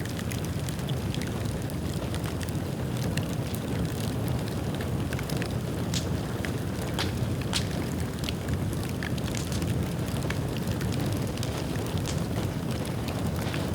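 Bonfire of dried bamboo burning: a steady low rumble of flames with frequent irregular sharp crackles and pops.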